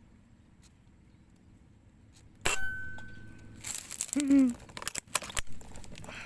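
An air rifle fired once about two and a half seconds in, a sharp crack with a brief thin ringing after it. About a second later comes rustling with a short gliding squeal, then several sharp metallic clicks near the end.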